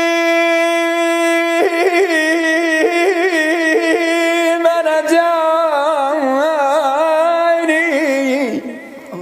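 A man chanting solo, Iraqi munshid style: he holds one long steady note, then breaks into a long ornamented melisma with fast wavering pitch that slides down and fades near the end.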